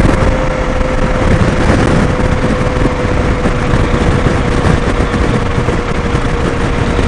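Motorcycle riding noise: a steady rush of engine and wind, with a faint steady whine over it.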